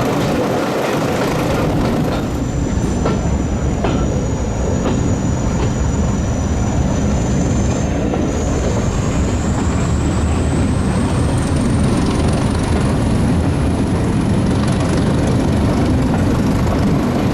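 Class 201 'Hastings' diesel-electric multiple unit running, with a steady low rumble. A thin high whine comes in about two seconds in and climbs slowly in pitch from about eight seconds on.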